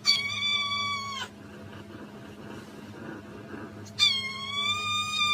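Cat meowing: two long, high-pitched meows held at a steady pitch, the first lasting a little over a second and the second starting about four seconds in.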